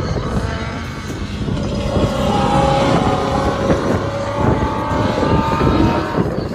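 Drift car's engine at high revs on the track, its pitch climbing from about two seconds in toward the end.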